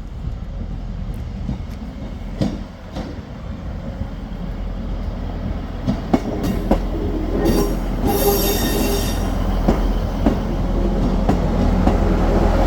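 Diesel train approaching, its engine rumble steadily building, with sharp clicks of wheels over rail joints. A brief high-pitched squeal comes from the wheels about eight seconds in.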